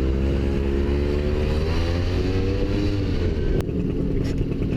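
Motorcycle engine under way, its pitch climbing slowly as it accelerates, then dropping about three seconds in as the throttle eases off, followed by a sharp click and a steadier, lower engine sound.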